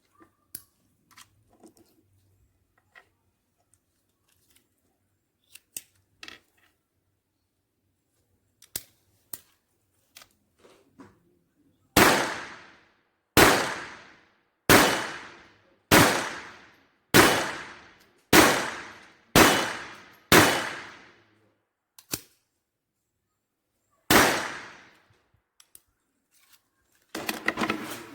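Taurus PT-22 .22LR pistol firing RWS High Velocity rounds. Eight shots come at a steady pace about a second apart, each with a short fading ring. After a pause and a small click, a ninth shot follows, with faint clicks of handling before the string and a brief rattle near the end.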